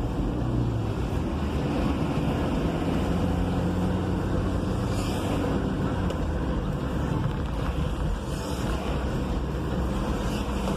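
Diesel vehicle's engine running steadily while driving in traffic, heard from inside the cab, with road and wind noise. Two brief hisses come about five and eight and a half seconds in.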